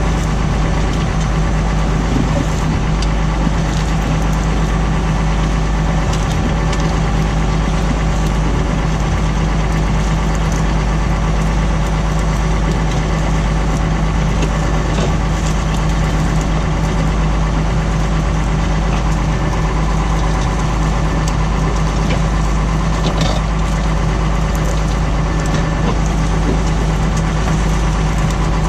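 Tractor engine running steadily at an unchanging speed.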